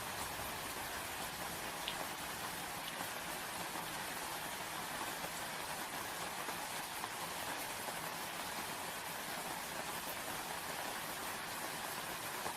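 Steady rain falling, an even hiss with a few faint individual drops standing out.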